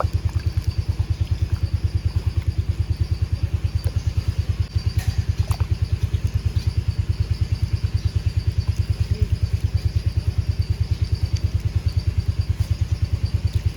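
A small engine idling steadily, a low even thumping several times a second.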